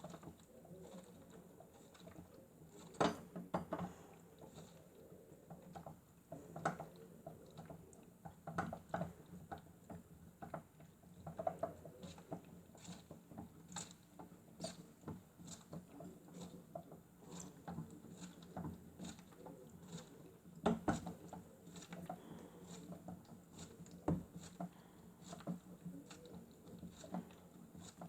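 Miele W1 toy washing machine running a cycle: a faint steady motor hum under irregular light plastic clicks and pattering, stronger knocks about 3, 7 and 21 seconds in.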